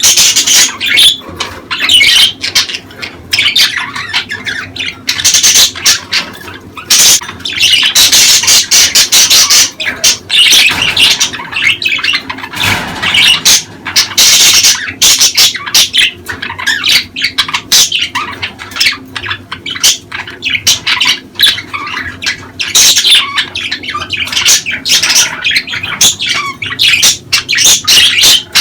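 Budgerigars chattering and squawking nonstop in quick, dense runs of high chirps: the warbling chatter of breeding-condition budgies.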